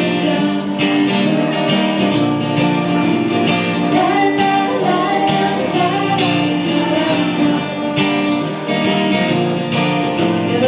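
Live pop band playing an instrumental passage led by strummed acoustic guitar.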